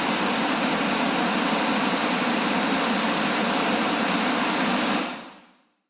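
Steady rushing of a waterfall, fading out about five seconds in.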